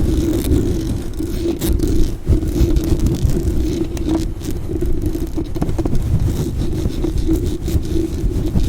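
A brush scrubbed fast and hard against a microphone: a continuous loud, scratchy rustle with many quick sharp scrapes and a low rumble from the mic being handled.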